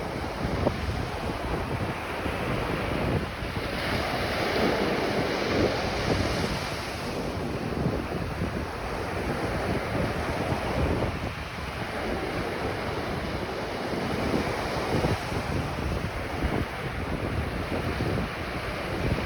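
Ocean surf washing onto a beach, waves swelling and receding, the biggest swell a few seconds in. Wind buffets the microphone with a low rumble throughout.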